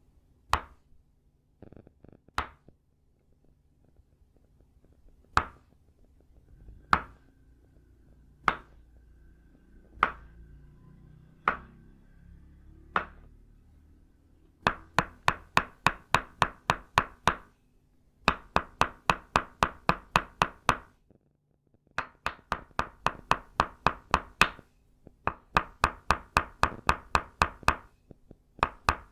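Tok Sen wooden mallet striking an itaúba-wood peg: single clear knocks about every second and a half, then from about halfway through, fast even runs of about five knocks a second with short pauses between runs. Each knock rings briefly.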